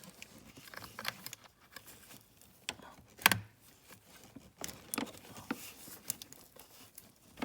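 Plastic wiring-harness connectors and cables being handled and pushed together in an engine bay: scattered light clicks and rustling, with a sharp click about three seconds in and another near the end as the connector clips onto the sensor.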